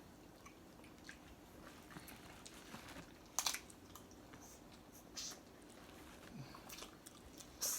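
Faint eating sounds from seafood boil: chewing with a few short wet clicks and smacks.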